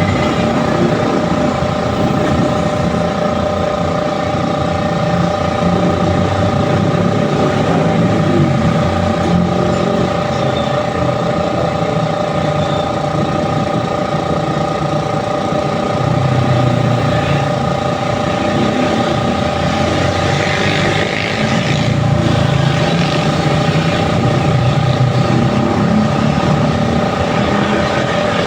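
An air compressor running steadily: a constant whine over the low rumble of its motor and pump.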